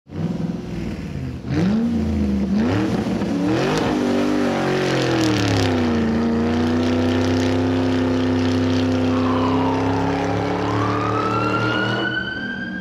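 Car engine revving: the pitch swings up and down through the first few seconds, then settles into a steady held note. A high rising whine joins near the end.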